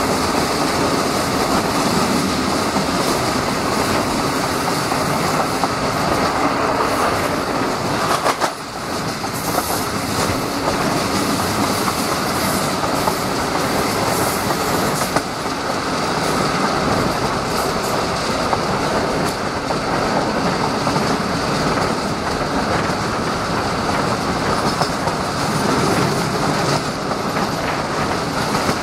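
Passenger train coach running at speed on the rails, heard from outside its window: a steady rush of wind and wheel noise with the clickety-clack of the wheels over rail joints, and a brief dip in the noise about eight seconds in.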